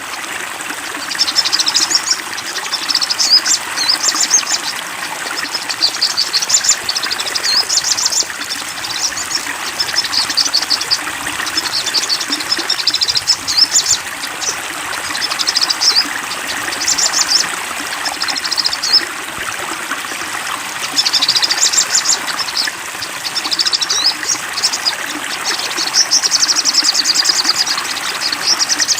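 Songbird singing short, high, rapid trilling phrases one after another, over a steady sound of flowing water.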